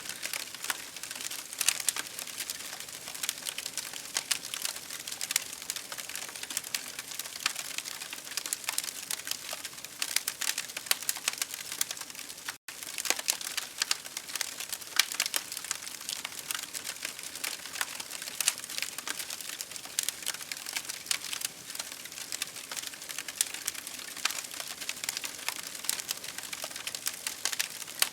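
Campfire crackling steadily: dense, irregular pops and snaps of wood over a steady rain-like hiss. The sound cuts out for an instant about twelve and a half seconds in.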